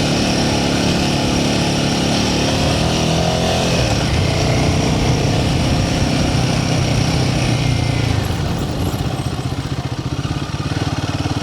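Royal Enfield Himalayan 450's single-cylinder engine running on the move. Its pitch rises over the first few seconds, then eases back with the throttle about eight seconds in.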